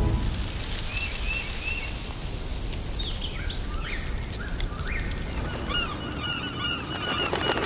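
Birds calling over a steady background hiss: scattered high chirps and upward-sweeping calls at first, then from about six seconds in a dense flock of gulls calling rapidly and continuously.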